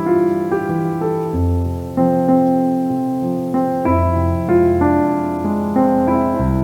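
Background piano music, slow and gentle, with sustained notes and bass chords changing about every second.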